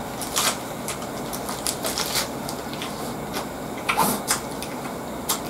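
Close-up chewing of a burger wrapped in raw cabbage leaves: irregular crisp crunches of the leaves over a steady hiss, the loudest about half a second, two, four and five seconds in.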